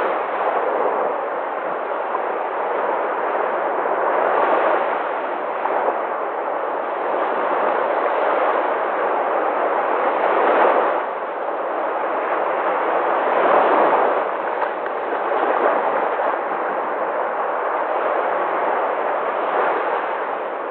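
Sea waves breaking and washing in a continuous rushing surf, swelling louder every few seconds as each wave comes in.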